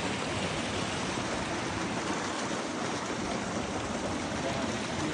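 Running water, a steady even rush with nothing else standing out.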